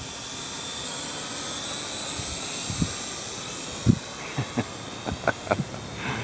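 Small quadcopter drone's propellers whining with a steady hiss, joined about halfway through by a string of short, soft knocks.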